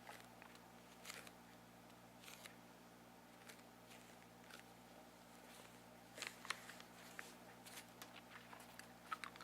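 Faint, scattered crunching clicks of candy being bitten and chewed close to the microphone, a few at a time with a small cluster about six seconds in, over a steady low hum.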